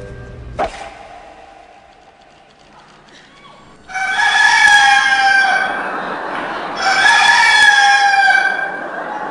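Rooster crowing twice, two long calls of about two and a half seconds each, one right after the other. A brief sharp click comes under a second in, before a quiet stretch.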